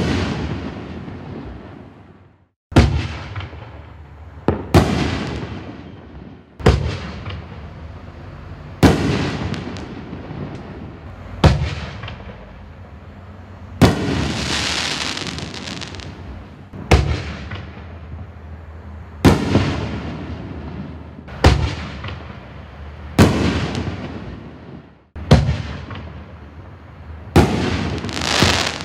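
Black Cat Diablo 24-shot 60-gram canister shell cake firing: sharp bangs of shells bursting about every two seconds, each trailing off. About halfway through, and again near the end, a burst is followed by a drawn-out crackling hiss.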